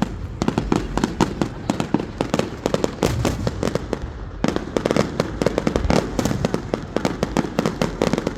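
Fireworks going off in a dense run of sharp crackling pops, many a second, over a low rumble of bursts. The crackle thins briefly about four seconds in, then picks up again.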